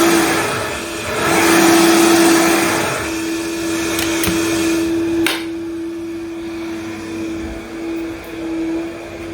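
Vitamix blender running: a steady motor hum under loud swells of churning noise for the first few seconds, then a sharp click about five seconds in, after which it runs noticeably quieter.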